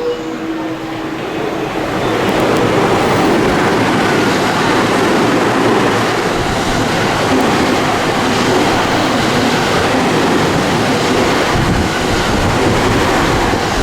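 Train passing through a station at speed without stopping: a loud, steady rushing rumble that builds over the first two seconds, holds, and eases off near the end.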